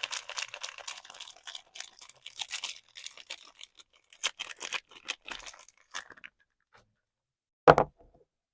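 Soap packaging being unwrapped by hand: wrapper crinkling and tearing in quick rustles for about six seconds, then a single loud thump near the end.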